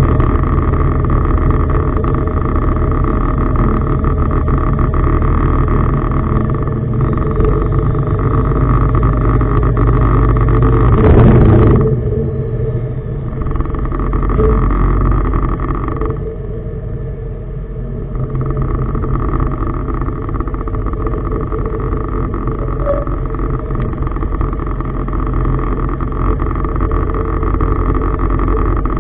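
Tugboat's diesel engine running steadily with a deep hum. About eleven seconds in there is a loud rush of noise lasting about a second, and the sound drops somewhat a few seconds later.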